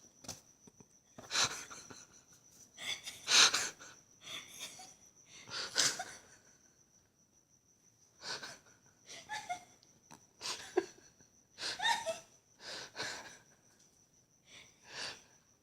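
Sleeping dog dreaming: a run of breathy huffs and wheezes, one every second or two, some with small whimpering yips.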